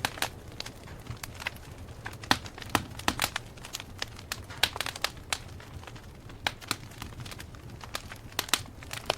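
Campfire burning, wood crackling and popping at irregular intervals over a low steady rumble of the flames.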